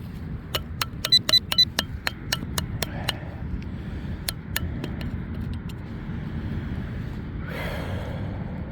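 A rapid run of sharp metallic clinks and taps for a few seconds as a dug-up crushed can is handled, then a few scattered ticks. Steady wind rumble on the microphone runs underneath.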